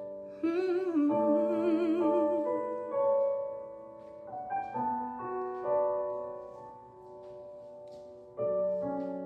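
Piano playing sustained chords in a slow ballad accompaniment, with a wordless sung note with vibrato over it about a second in. A new chord is struck near the end.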